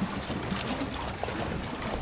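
Water lapping and trickling against a boat's hull, with wind rumbling on the microphone: a steady, uneven rush with no distinct events.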